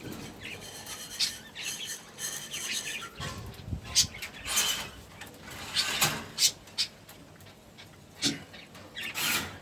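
Pigeons in their loft around feeding time: scattered rustling and clicking noises, with a few short bird calls.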